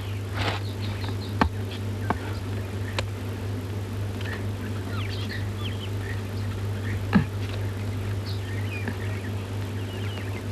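Birds chirping in short, high calls over a steady low hum, with a few sharp knocks, the loudest about seven seconds in.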